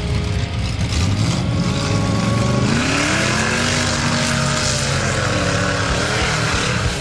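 Mud truck engine revving: it climbs sharply about three seconds in, stays high with the pitch wavering, then eases back down near the end.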